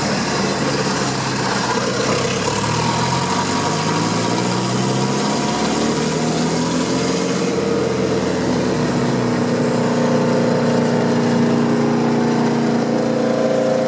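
Vermeer BC 1000XL wood chipper's 3.3-litre Cummins turbo diesel running. Its pitch climbs slowly over the first nine seconds or so as the engine speeds up, then holds steady at the higher speed.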